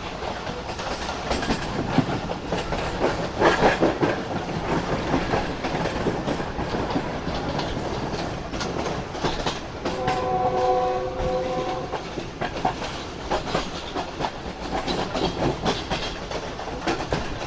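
Passenger train running, its wheels clattering over the rail joints in a steady rumble. About ten seconds in, the train's horn sounds for roughly two seconds.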